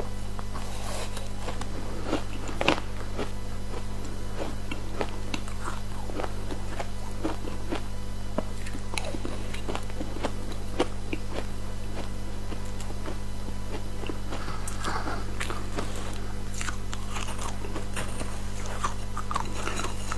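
Close-miked biting and chewing of ice dusted with matcha powder: many short, sharp crunches one after another, over a steady low hum.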